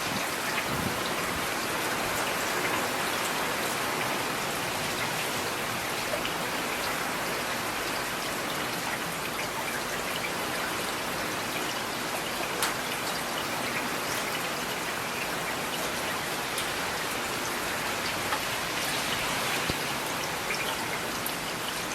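Steady rain falling: an even hiss with scattered sharper drop hits ticking through it, one of them standing out about halfway through.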